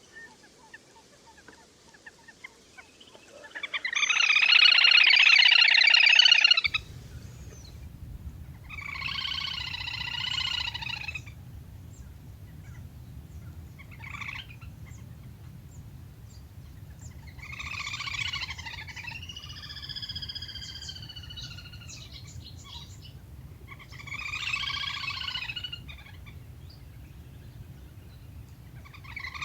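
Repeated bursts of trilling waterbird calls of the kind sold as 'le le hôi' flock-calling recordings, each two to three seconds long. The loudest comes about four seconds in, and shorter ones follow every few seconds, some with gliding notes. A low steady hum starts abruptly about seven seconds in.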